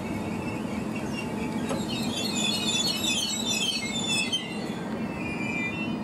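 A Skånetrafiken Pågatåg electric multiple unit (Alstom Coradia Nordic X61) creeps to a stop along the platform over a steady low rumble. Its brakes and wheels squeal in a cluster of high-pitched squeals from about two seconds in, fading near the end.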